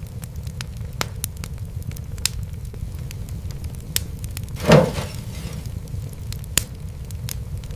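Fireplace fire crackling over a steady low rumble, with scattered sharp pops and one louder, half-second hissing burst about four and a half seconds in.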